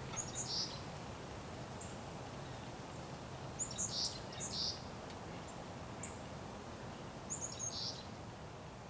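A small songbird giving short, high chirping calls three times, a few seconds apart, over a steady low background rumble.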